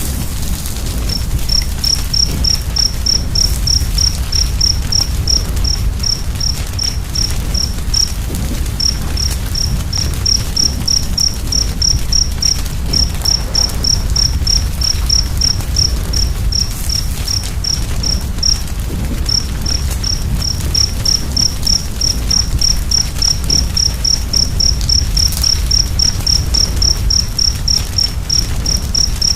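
A cricket chirping in a steady rhythm, about three high chirps a second, starting about a second in and pausing briefly twice, over the low rumble and faint crackle of a wood fire.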